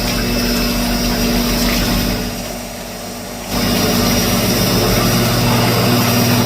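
A machine running with a steady hum and a high whine, suddenly growing louder about three and a half seconds in.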